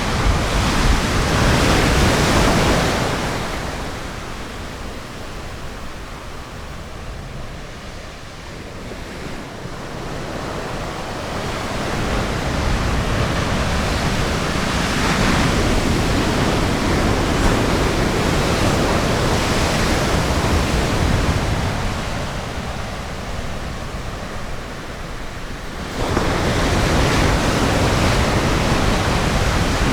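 Ocean surf breaking on a beach: a steady wash of waves that swells and ebbs every several seconds. It rises abruptly about 26 seconds in.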